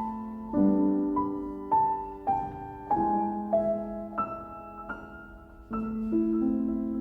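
Slow, gentle solo piano music: a melody of single notes struck about every half second over held chords, fading to a quieter stretch before a new chord comes in near the end.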